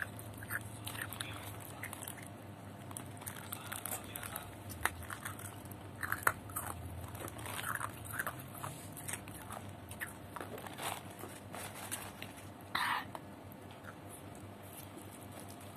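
Close-miked eating sounds: a person chewing, with scattered small mouth clicks and smacks, and one short louder burst about thirteen seconds in.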